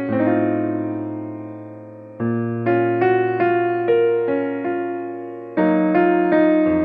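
Calm piano background music: a chord rings and fades away, then new chords are struck about two seconds in and again near the end, each followed by a few quieter melody notes.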